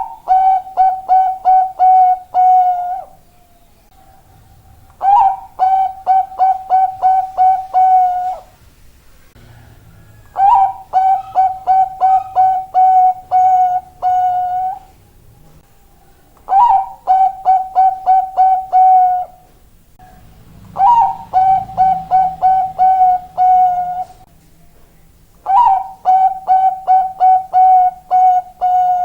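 Bangkok-type zebra dove (perkutut) cooing its song in six phrases, one about every five seconds. Each phrase is a rising opening note, then a quick run of about seven short staccato coos, ending on a held note.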